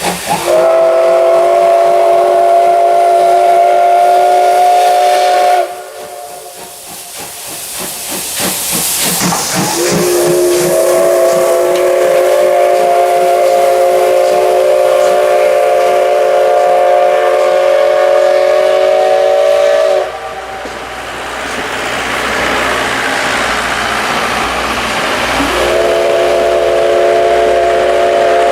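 Steam locomotive whistle of the SL Ginga, the C58 239, blowing three blasts. The first lasts about five seconds, the second about ten seconds, and the third begins a few seconds before the end; each sounds several tones at once. Between the blasts, steam hisses.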